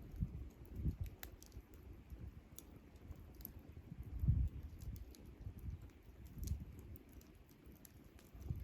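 Wood campfire crackling with scattered sharp snaps and pops, under several low, soft rumbling swells, the strongest about four seconds in.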